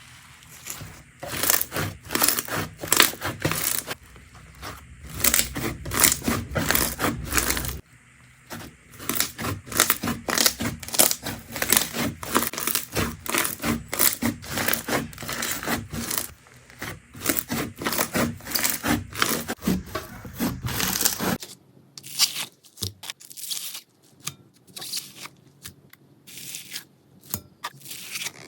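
Slime being squeezed and stretched by hand, making a rapid run of sticky pops, clicks and crackles. The sound changes abruptly twice, about a third of the way in and again near three quarters.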